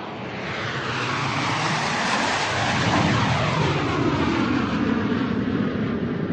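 Airplane flying overhead: a rushing engine noise that swells over the first few seconds, peaks about halfway, then slowly fades, with a sweeping, phasing sound as it passes over.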